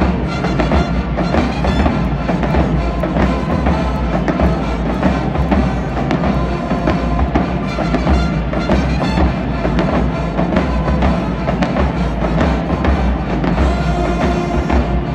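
High school marching band playing, with heavy drums under the melody.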